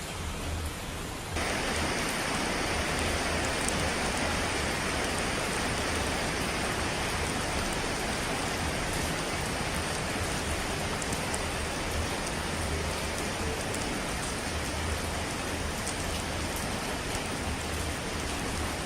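Steady hiss of falling water, like heavy rain, which steps up suddenly to a louder level about a second in.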